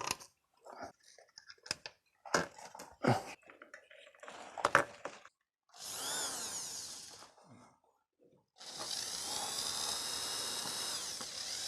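An electric drill-driver driving fastening screws into plastic wall plugs in a brick chimney, in two runs: a short burst about six seconds in, then a longer run of about three seconds, each whining up to speed and winding down at the end. Before them, scattered knocks and clicks of the metal fan housing and tools being handled.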